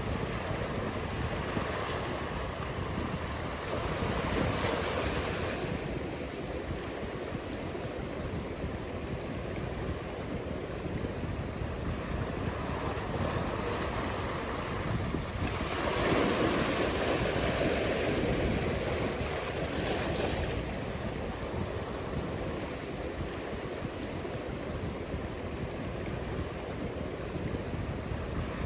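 Ocean surf breaking and washing ashore, with wind buffeting the microphone. The surge swells louder twice, about a third of the way in and again past the middle.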